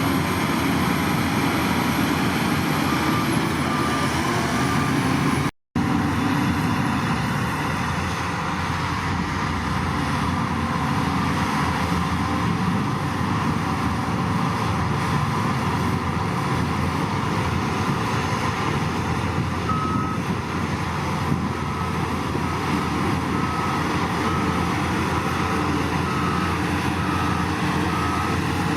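Heavy diesel construction machinery running steadily, with a back-up alarm beeping in an even rhythm briefly near the start and again through the last third. The sound drops out for an instant about five and a half seconds in.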